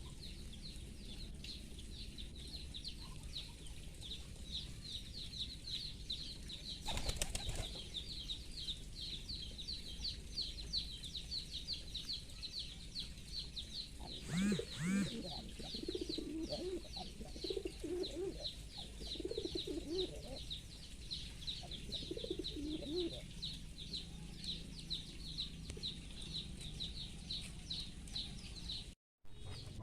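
Domestic pigeons, with wing flapping and a handful of low coos in the middle, over a steady, fast, high-pitched chirping that runs throughout.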